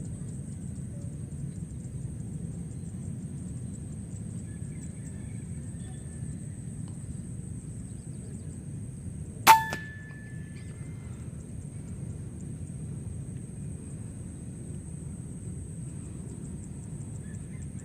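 A single sharp shot from an Air Arms PCP air rifle about halfway through, with a brief metallic ring after it. Under it runs a steady low rumble and a thin, steady high-pitched tone.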